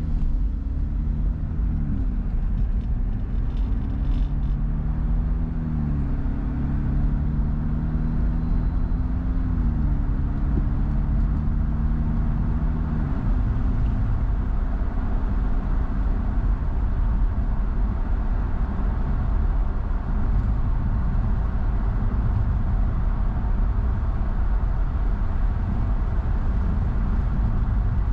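Car engine and road rumble heard from inside the car while pulling away. The engine note climbs and drops back four times in the first half, like upshifts through the gears, then holds steady at cruising speed over a deep tyre rumble.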